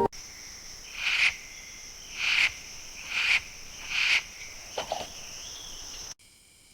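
Rainforest ambience: a steady high-pitched insect drone, with four loud animal calls about a second apart over it. The drone cuts off abruptly about six seconds in.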